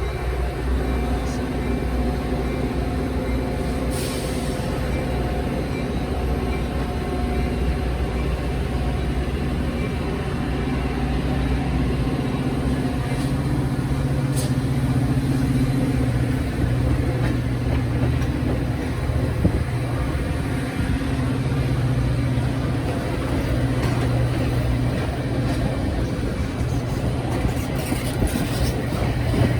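Train passing with a diesel locomotive engine running at a steady pitch over the rumble of the train, with a couple of sharp clicks, one a few seconds in and one about halfway.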